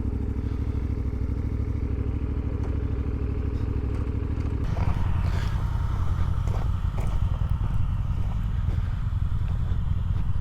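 CFMoto 450MT parallel-twin adventure motorcycle engine running steadily while being ridden, with light rattling. The engine note changes about halfway through.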